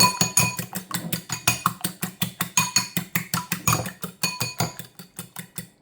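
Fork whisking eggs in a bowl: rapid, even clinks of the fork against the bowl, about seven a second, with the bowl ringing briefly after each, growing weaker and stopping near the end.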